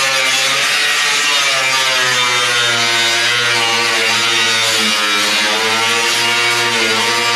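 Power cut-off wheel grinding through the layered sheet metal and spot welds of a car body's door-hinge box. The motor runs with a steady whine whose pitch sags and recovers as the wheel is worked up and down under load, over a loud hiss of abrasive cutting.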